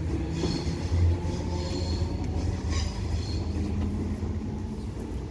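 ScotRail Class 318 electric multiple unit pulling out of the station, a steady low rumble of the train running, with short high-pitched squeals coming and going in the first few seconds.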